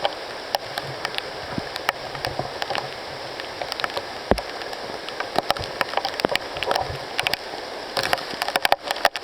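Tropical rain falling steadily, with many sharp drops tapping at irregular moments close by.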